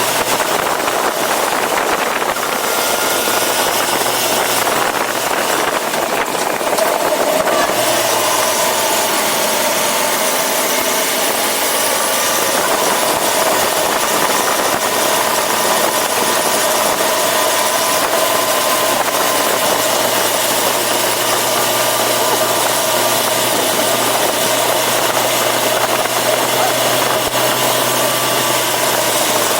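Yamaha FZ6R sportbike's inline-four engine running steadily at a low, idle-like speed, with slight pitch shifts about eight to twelve seconds in.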